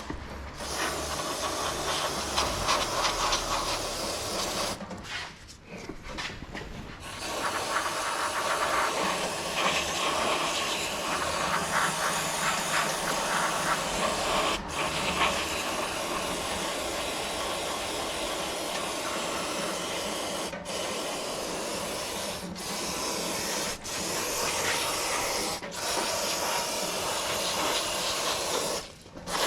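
Aerosol parts cleaner spraying in long hissing bursts, with a pause about five seconds in and a few brief breaks between sprays in the second half.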